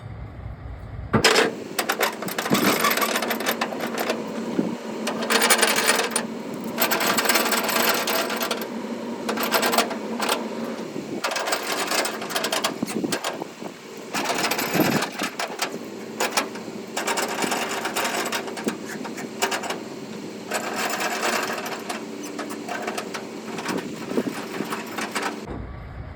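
Rapid mechanical clattering and rattling, dense and irregular, that starts abruptly about a second in and stops abruptly near the end.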